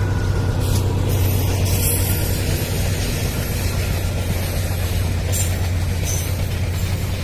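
Diesel train running at a steady pace: a constant low engine drone under the rumble and hiss of wheels on rail, with a few short higher-pitched scrapes.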